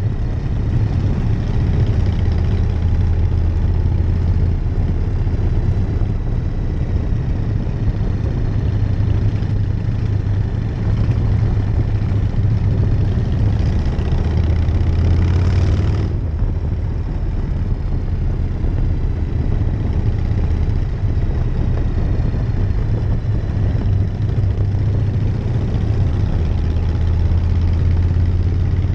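1999 Harley-Davidson Night Train's V-twin engine running steadily while riding, with a deep low drone. A little past halfway it swells louder, then drops off suddenly.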